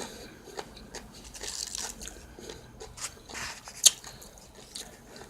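Close-miked chewing and crunching of food in the mouth, with scattered small clicks and one sharp click a little under four seconds in.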